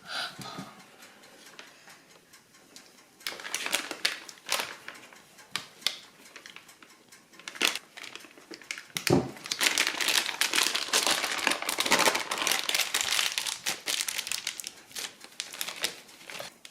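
Crinkling and rustling of a thin plastic or paper sheet being handled: brief bursts a few seconds in, a single knock about nine seconds in, then several seconds of steady crinkling.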